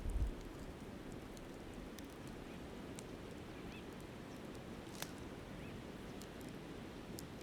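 A river flowing steadily, with the sharp crackle and pop of a wood campfire scattered through it and a few faint bird chirps about four seconds in. Low wind rumble on the microphone dies away just at the start.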